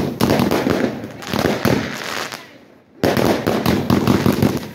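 Fireworks going off: a dense, rapid string of bangs and crackles that thins out about two and a half seconds in, then starts again abruptly at about three seconds.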